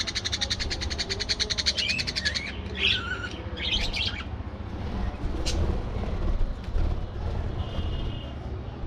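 Budgerigars chattering: a fast, buzzy rattle of pulses over about the first two and a half seconds, then short warbling chirps, then a few faint calls.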